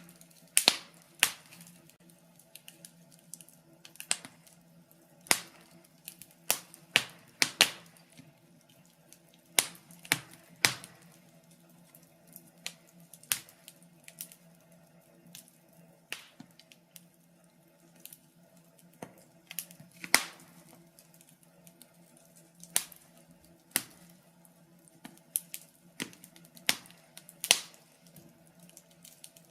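Wood fire in a fireplace crackling: irregular sharp pops and snaps, sometimes several within a second and sometimes seconds apart, with a quieter stretch in the middle. A faint steady hum runs underneath.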